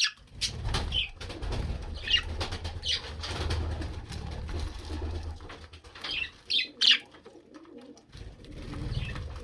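Pet budgerigars chirping in short, sharp calls, several loud ones close together about seven seconds in, over a low rumble.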